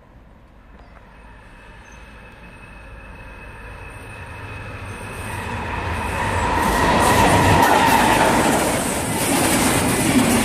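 DB class 218 diesel locomotive approaching and passing with a EuroCity train of SBB coaches. The sound grows steadily louder until about seven seconds in, then the coaches roll past with wheel clatter.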